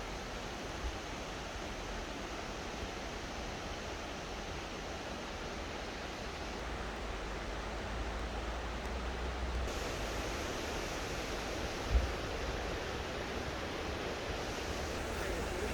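Steady rushing of a mountain stream, with a low rumble of wind on the microphone and a single brief low thump about twelve seconds in.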